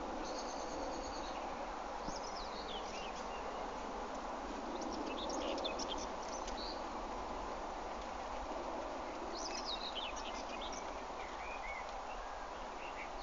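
Birds chirping and twittering a few times, short quick calls, over a steady outdoor background hiss.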